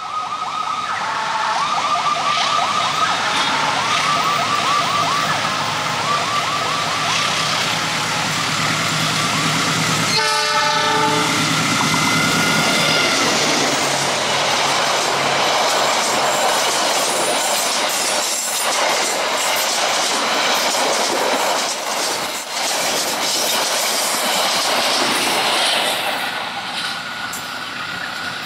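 A train horn sounds in a series of pulsing blasts for the first several seconds. Then a locomotive-hauled passenger train passes at speed, its wheels clattering and rushing on the rails, and it eases off near the end as the train draws away.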